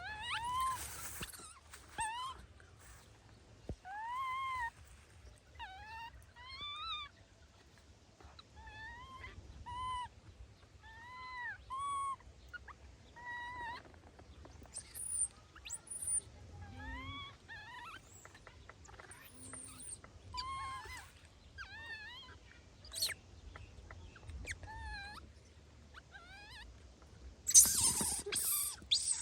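Baby monkey calling over and over: short high cries, each rising and falling in pitch, repeated every second or two. A loud noisy burst comes near the end.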